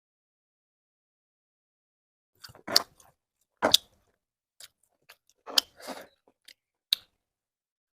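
Close-up eating sounds: food being bitten and chewed, with a series of short, sharp crunches. They begin after about two and a half seconds of silence.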